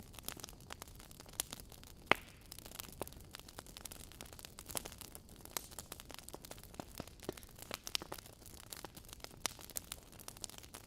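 Wood fire burning in a fireplace: logs crackling and popping in sharp, irregular snaps over a soft hiss, with one louder pop about two seconds in.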